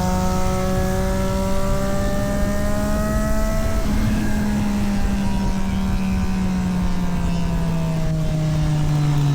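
Triumph Street Triple 765 RS's three-cylinder engine running under load on track. Its note climbs slowly for about four seconds, then falls gradually as the revs drop.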